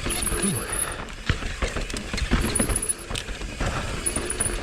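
Mountain bike clattering and rattling over rough trail at speed: a dense run of knocks and clicks from the bike over a steady low rumble.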